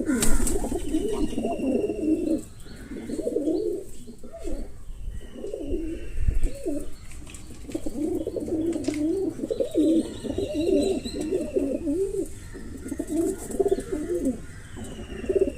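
Birds calling: a continuous low, warbling, cooing-like chatter, with a thin, high, falling whistle about four times.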